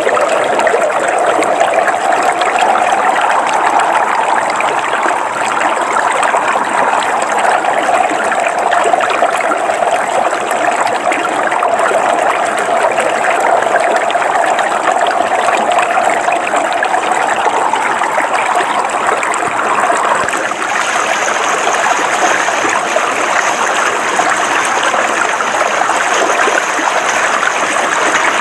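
River water flowing over rocks, a steady rush and trickle. About twenty seconds in its sound turns brighter and hissier.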